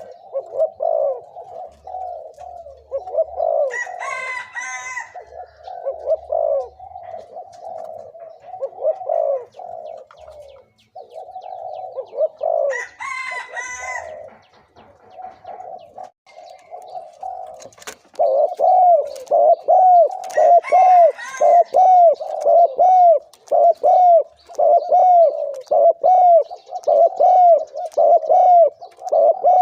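Spotted doves (Thai decoy birds) cooing continuously in rapid, repeated low notes. The cooing grows louder and very regular, about two notes a second, over the second half. Brief higher-pitched calls join in three times.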